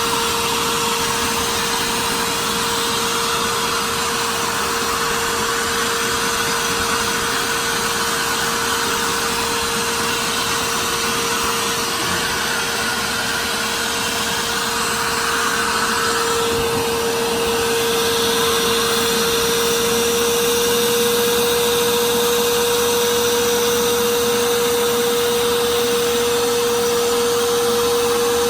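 Carpet cleaning machine running steadily, its motor giving a constant whine over a rushing hiss of suction, a little louder from about halfway through.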